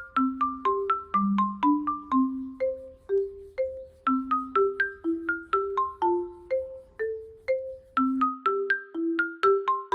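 Background music: a light melody of short struck notes in the manner of a marimba or xylophone, each note dying away quickly, about three notes a second with a low line beneath.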